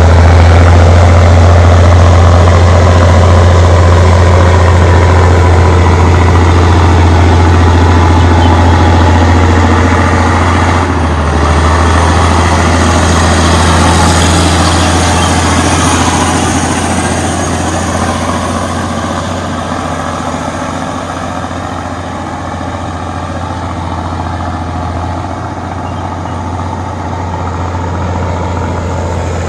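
Allis-Chalmers HD21 bulldozer's diesel engine running with a steady deep drone. It gets gradually quieter from about halfway through, then swells a little again near the end.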